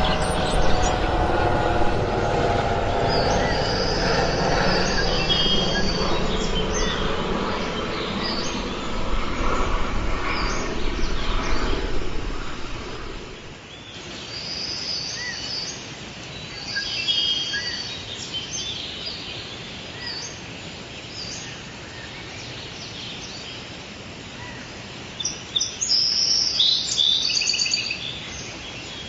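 Small backyard birds chirping and calling in short bursts. A loud low rumble fills the first half and cuts off about thirteen seconds in. A quick run of calls comes near the end.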